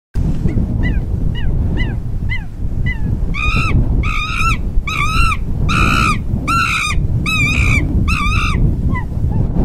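An animal calling over and over: a few soft falling chirps, then about eight loud, ringing calls in a row, each about half a second apart, over steady low background noise.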